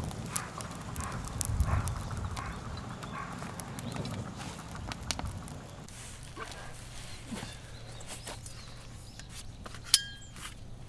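Firewood pieces knocking and clattering against each other in irregular wooden knocks, with one sharp knock near the end.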